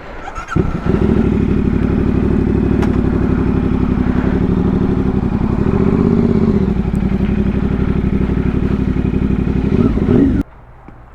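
CFMOTO 450SS parallel-twin motorcycle engine, breathing through an aftermarket slip-on exhaust, starts about half a second in and idles steadily, then is switched off abruptly near the end.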